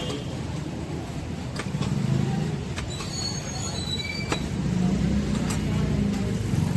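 Steady low rumble of road traffic, with a few sharp clicks and a brief faint high squeal about three seconds in.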